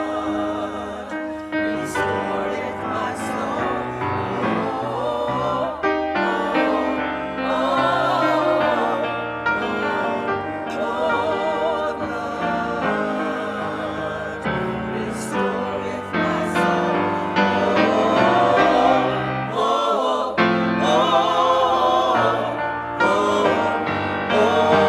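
A choir singing with vibrato over a held instrumental accompaniment.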